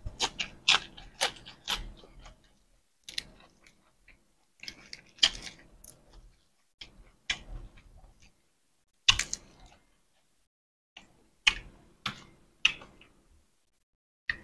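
Close-miked crunching of a person biting and chewing crisp raw leafy greens: clumps of sharp, crackly snaps every second or two, with quiet gaps between.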